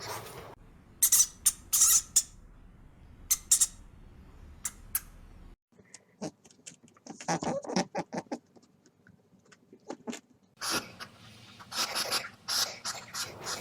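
A young animal's short, sharp, high calls, coming in separate bursts with gaps between, and a denser run near the end.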